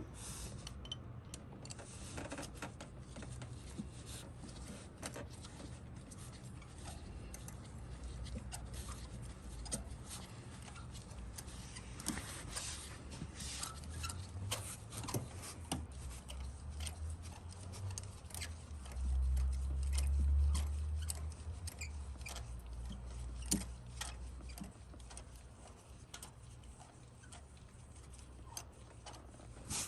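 Scattered small metallic clicks and scrapes of hand tools, a spark plug socket on an extension being worked in the plug well of a V8. A low rumble lasts a couple of seconds about twenty seconds in.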